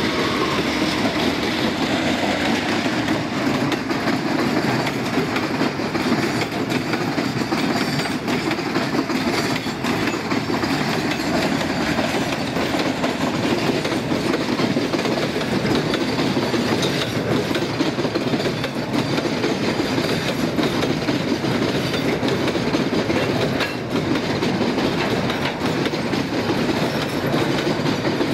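Freight train of gondola and container wagons passing at high speed: a steady rumble and clickety-clack of steel wheels over the rail joints.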